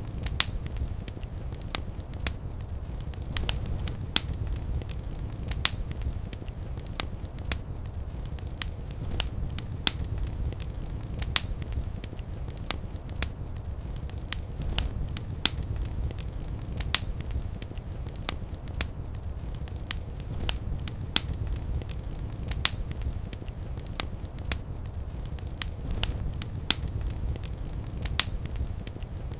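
Wood fire burning in a fireplace: a steady low rumble of flames with sharp crackles and pops at irregular intervals, a few a second.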